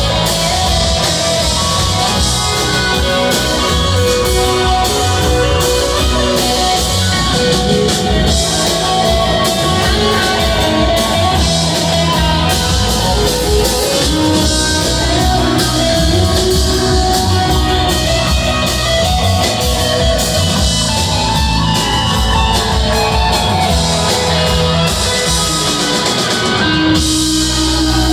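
Live rock band playing an instrumental jam: electric guitars over bass and a drum kit, loud and steady, with a shift in the playing near the end.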